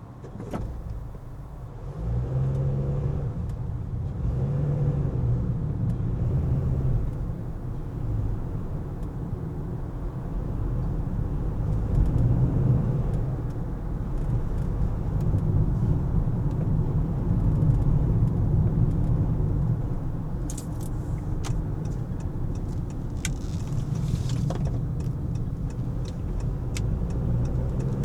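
Car driving in city traffic: a steady low rumble of engine and road noise that gets louder about two seconds in, as if pulling away, with a few faint clicks near the end.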